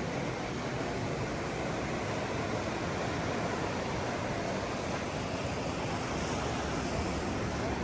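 Steady ocean surf washing on a beach, with some wind on the microphone.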